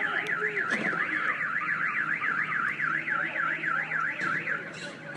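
Car alarm siren sounding a fast up-and-down warble, several sweeps a second, that cuts off about four and a half seconds in.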